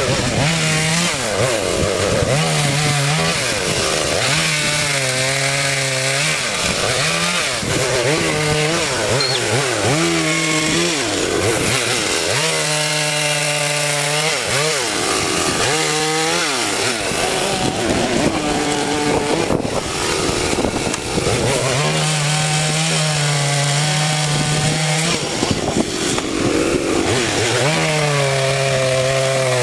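Chainsaw running hard while cutting wood, its engine pitch repeatedly dropping and recovering as the chain bites into the cut and then frees up.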